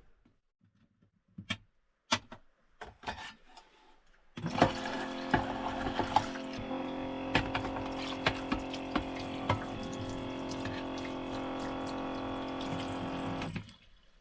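Water running from a tap into a container for about nine seconds, with small knocks and clinks through it; it starts suddenly and cuts off. A few separate knocks come before it.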